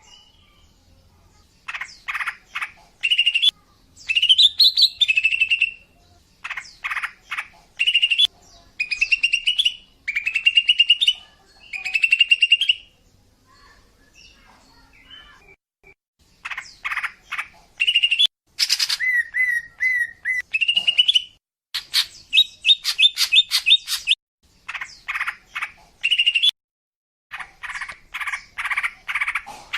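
Female green leafbird (cucak ijo) calling: short phrases of rapid stuttering notes, each ending in a rising chirp, repeated in quick runs with a pause about halfway. These are the female's calls used to lure a male.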